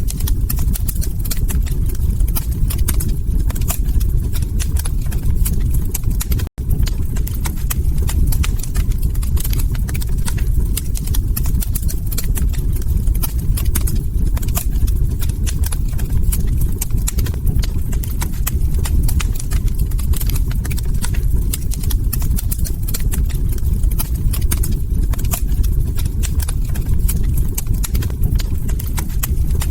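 Log fire crackling: dense, irregular small pops and snaps over a steady low rumble. The sound cuts out for an instant about six and a half seconds in.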